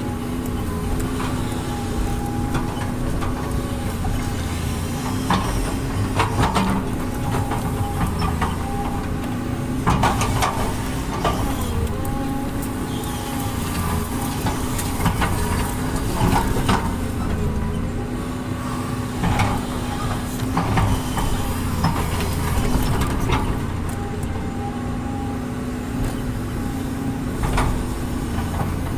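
Diesel engine of heavy road-working machinery running steadily under varying load, with sharp metallic clanks every few seconds.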